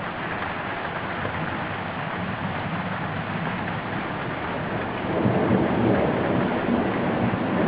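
Steady rain falling, with a roll of thunder rumbling in about five seconds in and growing louder.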